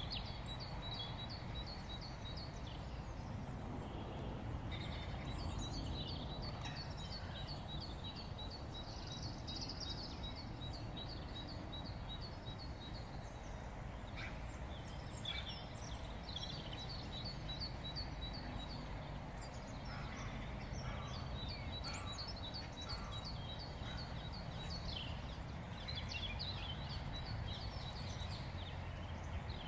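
Small birds singing in long runs of rapid, high repeated notes with short pauses between runs, over a steady low background rumble.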